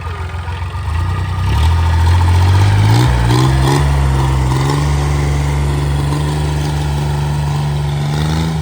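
A homemade tractor's engine running at idle, then opened up about a second in, rising in pitch over the next two seconds and holding at a higher steady speed.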